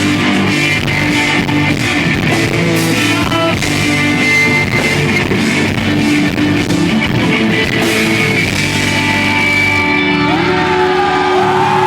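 A live rock band, electric guitars and drum kit, recorded from the audience on an iPod. About ten seconds in the drums stop and the song winds down on held guitar notes.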